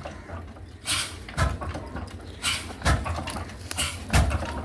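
Old diesel engine firing slowly and unevenly as it starts, with heavy thumps coming in pairs about half a second apart.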